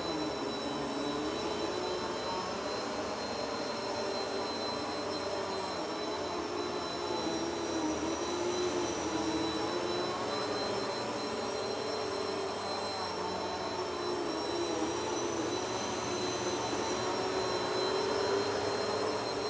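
Vacuum cleaner running steadily, its motor whine holding a high tone while its lower hum wavers slightly in pitch as it is pushed along.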